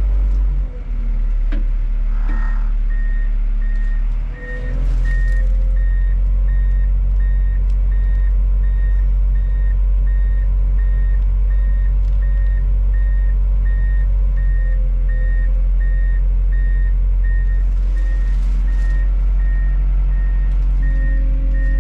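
Komatsu D51 bulldozer's diesel engine running as the machine reverses, with its backup alarm beeping at an even pace from about two seconds in.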